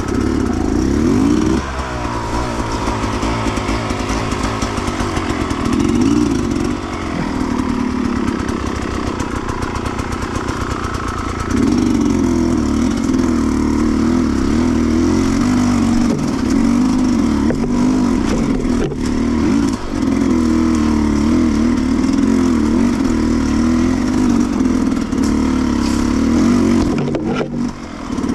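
Sherco 300 two-stroke enduro motorcycle engine being ridden on a trail, its pitch rising and falling with the throttle. It eases off about two seconds in and again for a few seconds in the middle, then pulls harder from about twelve seconds in. A few sharp clacks from the bike can be heard near the end.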